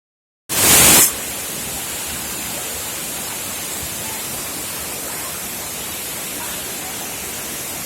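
Waterfall: a steady, even rush of falling water, starting about half a second in with a brief louder burst.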